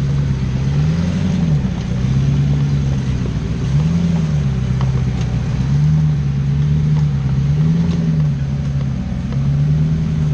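Off-road 4x4 engine revving up and easing back several times, its pitch climbing and falling about every two seconds over a steady low rumble, as the throttle is worked.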